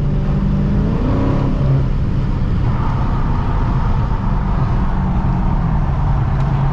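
Dodge Challenger Scat Pack's 6.4-litre HEMI V8 with its mid muffler and resonator deleted, heard from inside the cabin while driving. The revs climb briefly about a second in, then settle into a steady exhaust drone.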